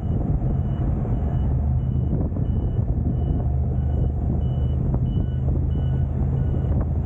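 Rapid, even electronic beeping, about three high beeps a second, over the steady low drone of a vehicle's engine and road noise.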